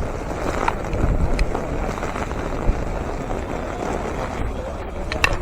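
Wind buffeting the microphone: a steady rushing roar with a heavy low rumble that swells about a second in. A few short sharp clicks sound over it, one near the end.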